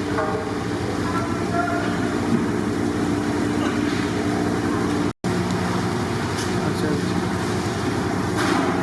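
A steady low hum under a general din of voices and street traffic; the sound cuts out completely for a moment about five seconds in.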